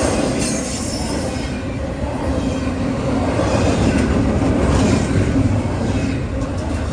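Train passing close by: a steady, loud rumble of wheels on rails, with a faint high wheel squeal at times.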